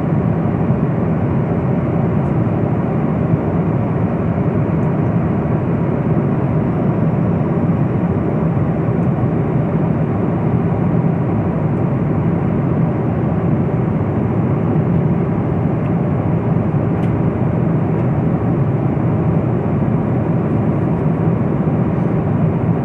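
Steady cabin noise of an airliner in flight: a constant low rush of engine and airflow, unchanging throughout.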